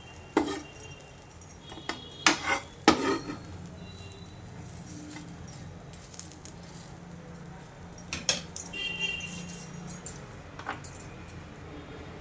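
Metal kitchen utensils clinking, a handful of sharp knocks with a brief ring, over a steady low hum.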